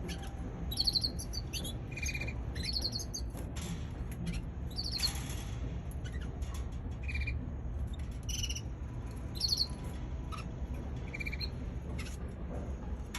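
Young canary chirping: short, high chirps in scattered groups, irregularly spaced, over a steady low hum.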